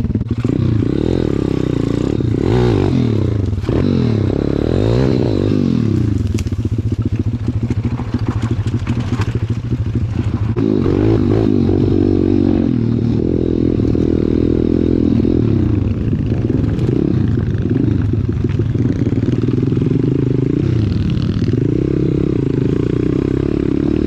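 Pit bike's small single-cylinder four-stroke engine running as it is ridden, its revs rising and falling with the throttle.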